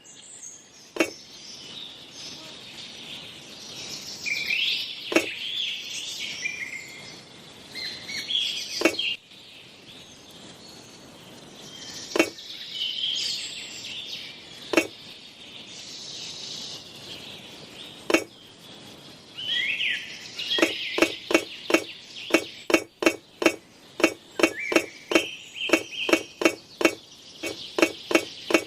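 Sharp, light taps on something hard, one every few seconds, then a quick regular run of about two or three taps a second from about two-thirds in. Birds chirp throughout.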